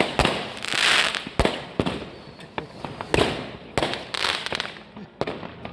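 New Year's Eve fireworks and firecrackers going off: a run of sharp bangs at uneven intervals, some close together, with hissing between them.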